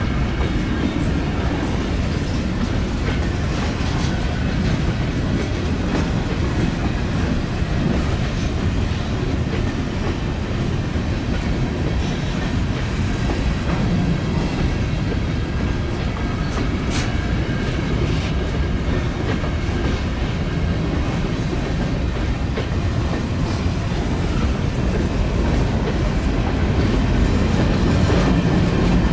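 Train rolling past, its steel wheels clicking over the rail joints in a steady run, growing a little louder near the end.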